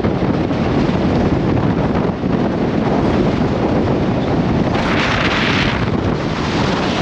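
Loud wind buffeting the microphone over a steady low rumble, with a brief rush of hiss about five seconds in.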